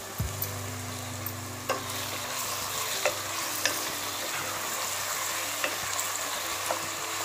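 Onions, ginger-garlic paste and curry leaves sizzling in oil in a ceramic-coated pan while a wooden spatula stirs them, with a few sharp knocks of the spatula against the pan.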